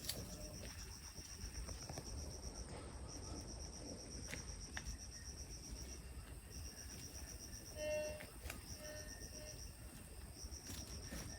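Insects chirping outdoors: a high, fast-pulsing trill in runs of a second or two with short breaks between them, over a low steady background rumble. A short, louder pitched call cuts in about eight seconds in.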